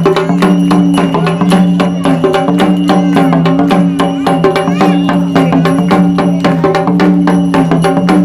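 Sambal, the Maharashtrian pair of folk drums beaten with sticks, played in a fast, steady rhythm over a held low tone with a melody stepping up and down above it. The rhythm serves as a signal that guides a walker's steps forward and back.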